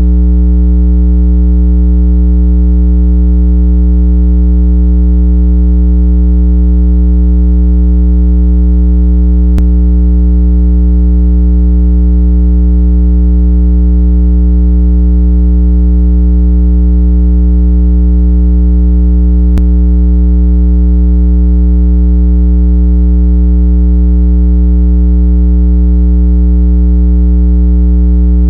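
Loud, steady, low electronic tone with a stack of overtones, unchanging, with a faint tick about every ten seconds. It is a speaker water-eject tone, billed as 165 Hz, meant to vibrate earbud and phone speakers to shake out trapped water.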